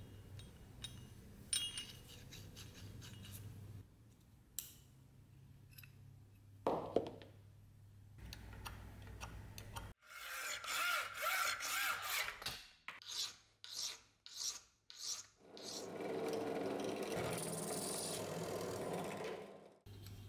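Sandpaper rubbed by hand over wood: a few light taps and handling noises, then a run of short back-and-forth scraping strokes, then a longer steady rub near the end.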